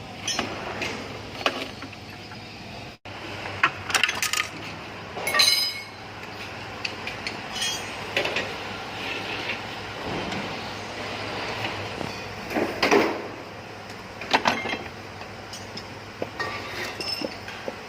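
Steel tools and transmission parts clinking and clanking at irregular intervals, some strikes ringing briefly, as a truck gearbox is taken apart by hand.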